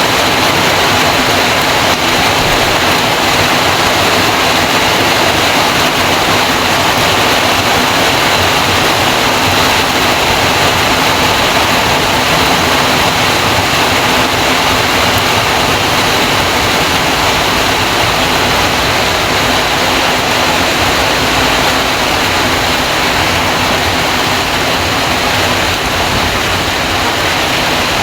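Steady, loud rush of water: heavy rain, with rainwater pouring off a roof.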